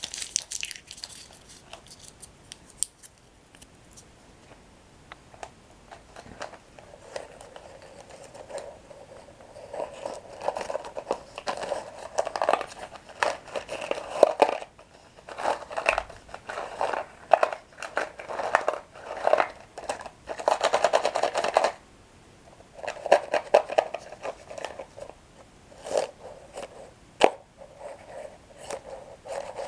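Close-up crunching and chewing of toasted breadsticks. A few sharp crunches come at the start, then a quieter stretch. From about nine seconds in there are repeated bouts of crackly chewing with short pauses between them.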